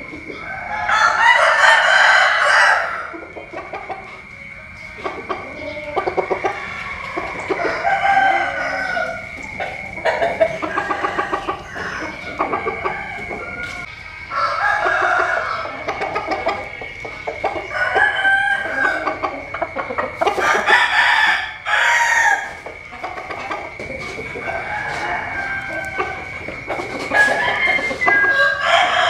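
Roosters crowing several times, one after another, with clucking in between; the loudest crow comes about a second in. A steady high tone runs underneath until near the end.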